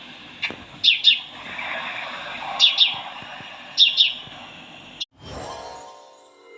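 Birdsong: a bird chirping in pairs of short falling notes, three times, over a soft background of other bird calls. It cuts off suddenly about five seconds in, followed by a fainter, steadier sound.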